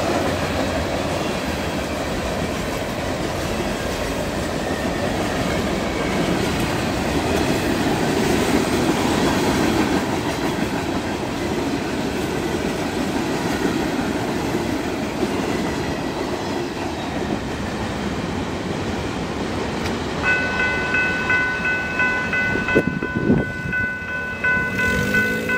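FEC freight cars rolling past with a steady rumble and clickety-clack of wheels on rail joints, fading out about three-quarters of the way through as the end of the train passes. Near the end, the level-crossing bell rings steadily, with a few knocks about a second later.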